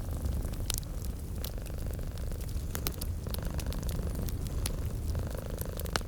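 A domestic cat purring steadily in a low rumble, swelling and easing with its breaths, over a wood fire crackling with scattered sharp pops.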